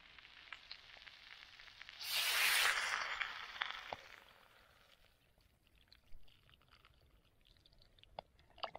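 Food sizzling in a hot pan over a campfire: a loud burst of sizzling about two seconds in that dies away over the next two seconds, followed by scattered small clicks and taps.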